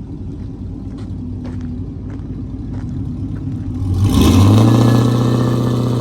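Car engine rumbling at idle, then revved hard about four seconds in and held at high revs in a burnout attempt.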